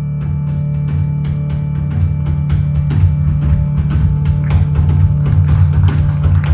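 Live folk-rock band playing an instrumental: a held low note sounds throughout, and a steady beat of drum strikes comes in about half a second in.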